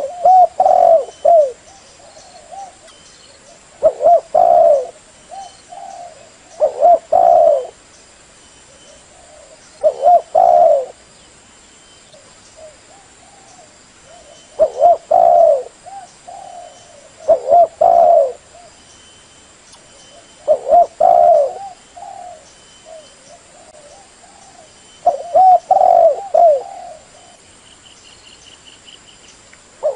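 Spotted dove (chim cu gáy) cooing: a decoy bird's call used to lure wild doves, about eight short phrases of low coos repeated roughly every three seconds.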